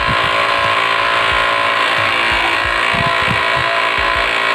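Brother DCP-L2540DW laser printer's drive motor and gear train running, a steady whine with a grinding rattle and irregular low knocks: the unusual grinding noise being troubleshot in this printer.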